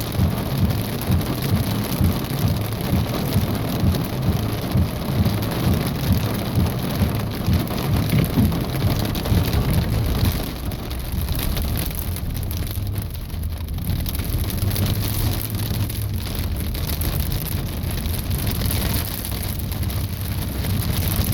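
Pea-sized hail and heavy rain pelting a vehicle's roof and windshield in a strong thunderstorm: a dense, rapid patter of small hits that eases slightly about halfway through.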